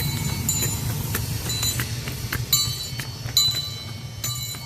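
Train cars rolling on rails: a steady low rumble with irregular sharp metallic clicks and clinks that ring briefly at a high pitch.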